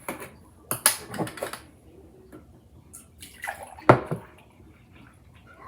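Milk being poured into a mixing bowl in short splashing spells, with one sharp knock about four seconds in.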